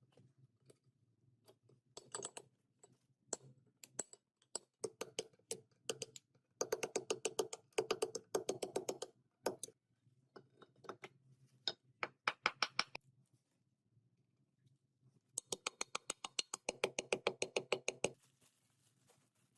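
Several bursts of rapid, evenly spaced sharp clicks, about eight a second, separated by short pauses, over a faint steady low hum.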